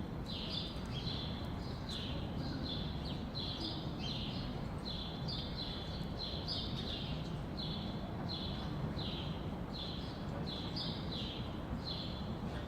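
Small bird chirping over and over, short high chirps about two to three a second, over a low steady background rumble.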